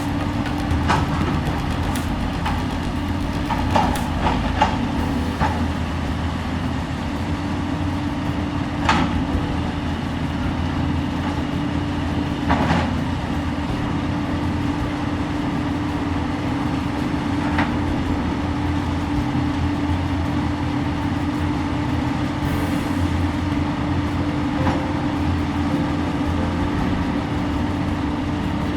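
Heavy diesel engine running at a steady speed, with a constant drone, and a few sharp metallic clanks or knocks over the first half.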